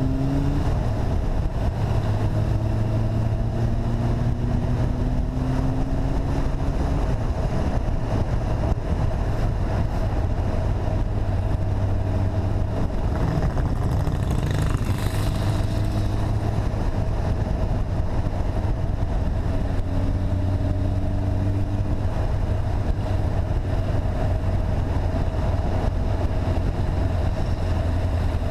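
Motorcycle engine under way, rising in pitch in the first second as it accelerates, then running at a fairly steady cruising speed.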